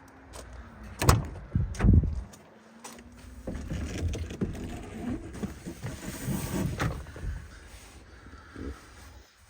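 Two heavy thumps about a second apart, then several seconds of knocking and clattering, typical of a truck's cab door and fittings being handled.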